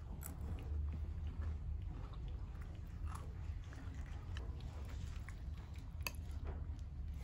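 A person chewing mouthfuls of crispy fried chana dal laddu peethi, with scattered small crunches and clicks over a low steady hum.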